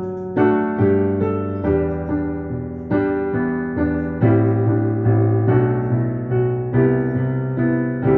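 Piano playing a chordal instrumental interlude between sung verses, with chords struck about every half second to second and left to ring and fade.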